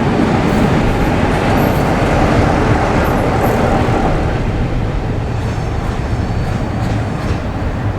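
Train rolling past, wheels running on the rails in a dense rumble that eases off about halfway through.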